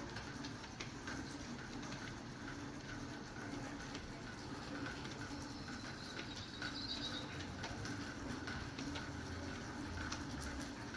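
Rain pattering and dripping, with many small scattered drops, as a storm eases. A short bird chirp comes about six and a half seconds in.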